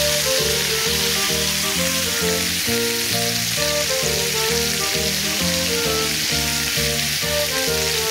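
Strips of pork belly sizzling steadily on a seasoned cast-iron cauldron-lid griddle (sotttukkeong). Background music with evenly timed notes plays under it.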